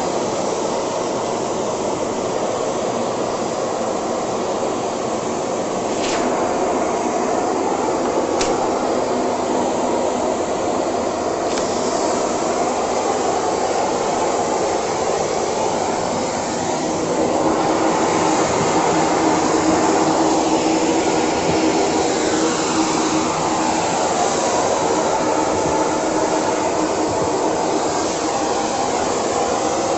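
Philips Series 3000 Performer Compact 900 W bagged vacuum cleaner running steadily. A few sharp clicks come in the first half, and its tone shifts up and down in the second half.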